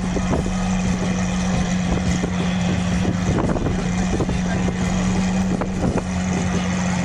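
A car engine idling with a steady drone, under scattered clicks and background noise.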